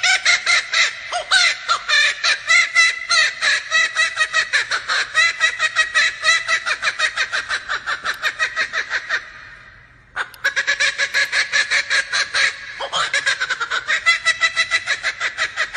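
Male laughing kookaburra giving its laughing call: a long run of loud, rapid cackling notes, about five a second. It breaks off about nine seconds in and starts up again a second later.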